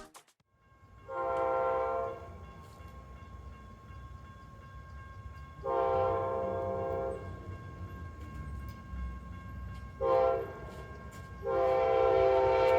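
Locomotive air horn blowing the grade-crossing pattern: two long blasts, a short one, then a final long blast still sounding at the end, over the steady low rumble of the train.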